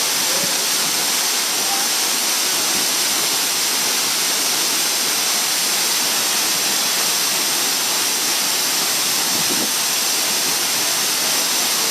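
Mooney Falls, a 200-foot waterfall, pouring steadily, heard close up: a loud, even rush of falling water and spray.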